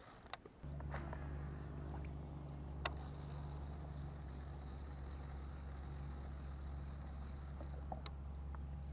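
A steady, low engine hum starts about half a second in and holds at one even pitch, with a few sharp clicks over it, the loudest about three seconds in.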